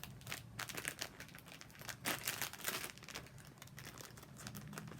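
Plastic wrapper of an individually packed custard cream sponge cake being torn open and crinkled: a run of irregular crackles and rustles, busiest about two seconds in.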